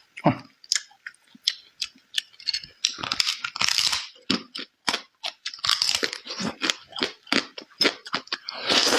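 A person chewing food with the mouth close to the microphone: wet, irregular mouth clicks and smacks, with busier chewing around three to four seconds in and again near the end.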